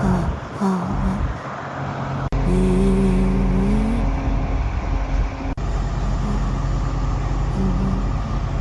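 Heavy machinery engine running with a steady low drone, broken by abrupt changes about two and five and a half seconds in. A pitched tone swells and falls back in the middle.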